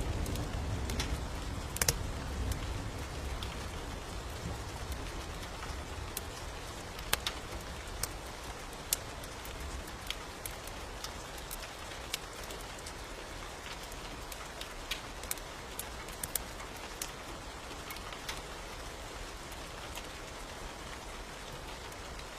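Steady rain with scattered sharp crackles and pops of a wood fire. A low rumble of thunder dies away over the first few seconds.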